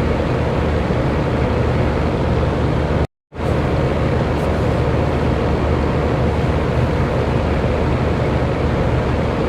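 Electric fan running steadily: an even rush of air with a low hum under it. About three seconds in, the sound cuts out completely for a fraction of a second, then comes straight back.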